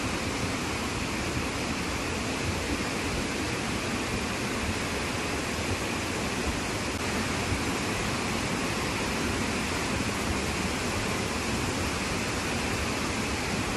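Heavy monsoon rain, a steady even hiss with a few faint sharper taps.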